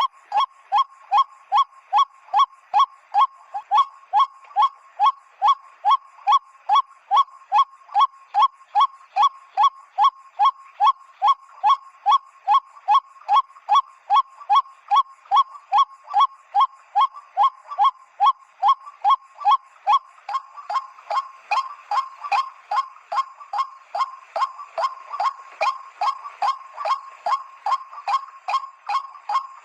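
White-breasted waterhen (ruak-ruak) calling: a long, steady series of loud, nasal 'kwak' notes, about two and a half a second, each note dropping slightly in pitch.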